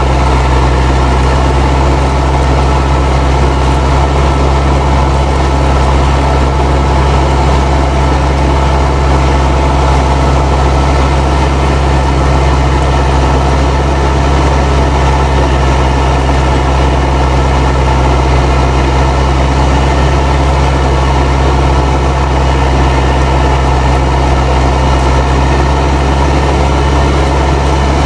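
Fendt 307 Ci tractor's turbocharged diesel engine running steadily under load while pulling a plough, with the turbocharger whistling above the engine note.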